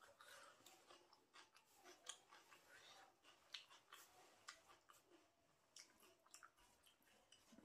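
Faint chewing of rice and chicken by hand-eating, with many small irregular clicks and crackles, some from fingers mixing rice on a steel plate.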